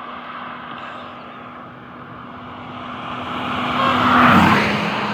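A motor vehicle approaching and driving past on the road, growing louder to a peak about four seconds in, its steady engine tone dropping in pitch as it passes.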